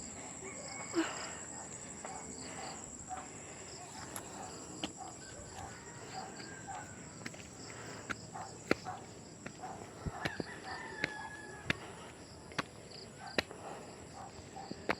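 Footsteps of a hiker in flip-flops climbing a dirt trail, a string of sharp steps, over a steady high-pitched insect drone. A rooster crows faintly twice.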